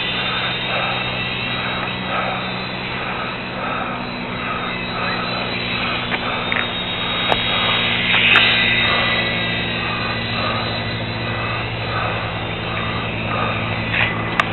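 Small electric motor and propeller of a micro foam Fokker Dr.1 RC plane buzzing steadily in flight, with a few brief clicks.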